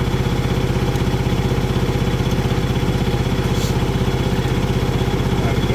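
Tractor diesel engine idling steadily with an even, rapid beat, running while its fuel system is bled, a fitting cracked loose so the trapped air is pushed out.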